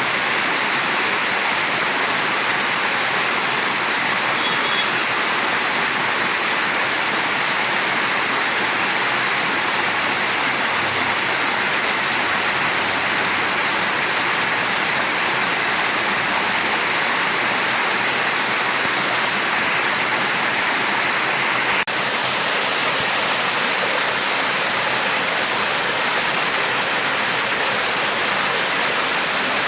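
Mountain stream running steadily, an unbroken rush of flowing water with the most sound in the upper range, and a single brief click about two-thirds of the way through.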